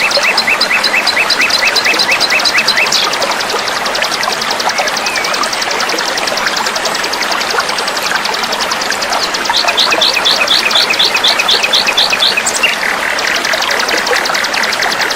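Small songbirds singing fast, dense runs of rapidly repeated chirping notes, one series after another with changes in pitch about three, nine and twelve seconds in, over a steady trickle of flowing water.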